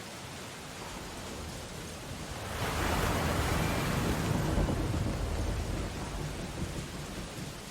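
Steady rain on window glass, with a big ocean wave crashing about two and a half seconds in: a surge that lasts a few seconds and then fades back into the rain.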